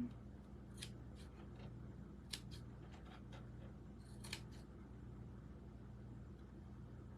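Scissors snipping fabric, several short crisp cuts over the first four and a half seconds, over a faint steady low hum.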